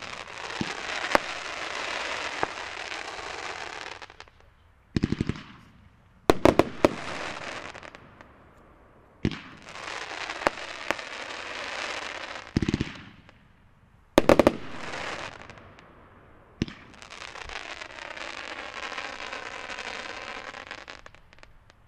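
A 500-gram consumer fireworks cake with crossette effects firing in about five volleys. Each volley opens with sharp launch and break bangs and is followed by a few seconds of dense crackling and hissing as the shells split into comets.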